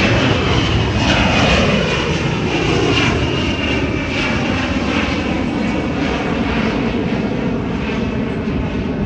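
Aircraft engines of a low pass at an air show, their pitch falling as the plane goes by, loudest near the start and then settling into a steady drone.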